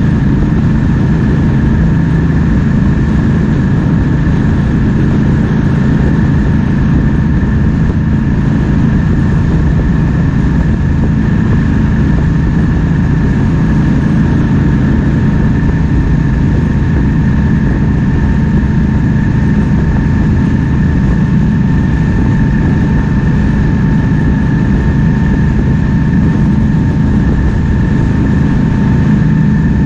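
Triumph Speed Twin 1200's 1200 cc parallel-twin engine running at a steady cruise, with constant wind noise over it. No revving or gear changes; the engine note holds even.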